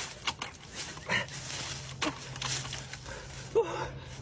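Three short animal cries, each a brief gliding note, spaced about a second apart, over a steady low hum that sets in about a second in.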